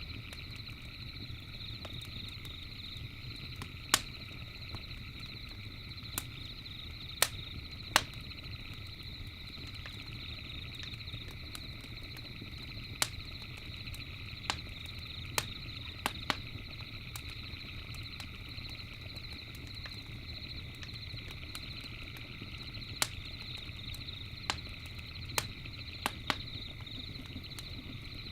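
Campfire crackling: sharp, irregular pops from the burning wood every second or few, over a low steady rush of the fire. Behind it runs a steady, high-pitched chorus of night insects or frogs.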